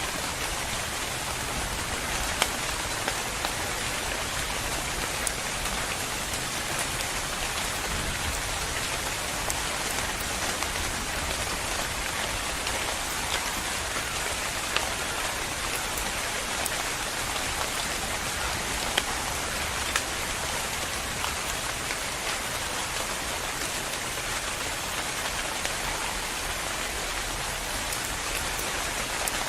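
Steady rain falling, a dense even hiss of drops on a surface with scattered sharper individual drop ticks.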